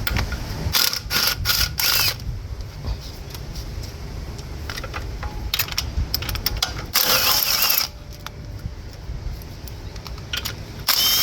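Hand ratchet wrench clicking in three short spells as 10 mm bolts near the timing chain are loosened.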